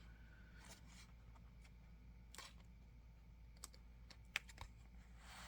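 Near silence with a few faint, scattered clicks and light taps of small objects being handled.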